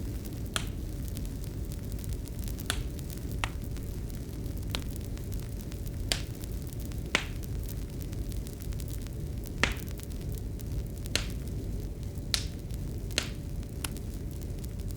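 Fireplace fire crackling: about a dozen sharp, irregular pops over a steady low rumble and a faint hum.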